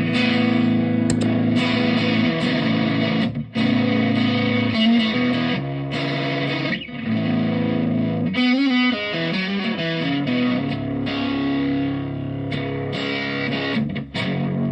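Electric guitar with P90 pickups played through a Behringer Centaur overdrive pedal into a tube amp, giving a driven tone. It plays sustained chords and notes with a few short gaps, and a wavering, bending note about halfway through.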